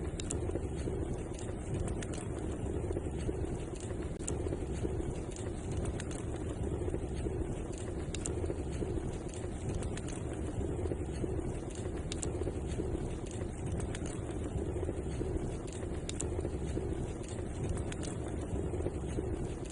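Fireplace fire burning: a steady low rumble of flames with many small, sharp crackles and pops scattered throughout.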